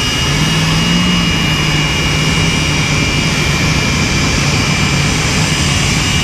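Jet drag car's turbine engine running steadily: a loud, continuous rush with a steady high whine.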